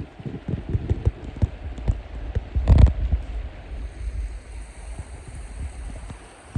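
Wind buffeting the microphone in irregular low rumbling gusts, with one louder thump near the middle.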